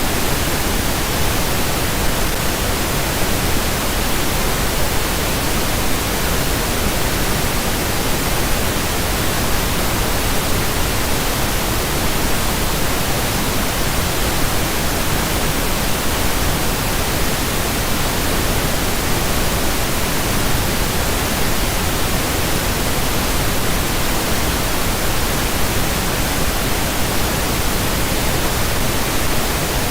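Steady pink noise: an even, unchanging hiss spread across the whole range, with no events or changes.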